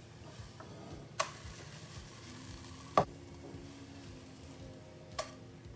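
Wheat-flour flatbread frying faintly in olive oil in a nonstick pan, with three short knocks of the spatula and pan, about one, three and five seconds in, the middle one the loudest.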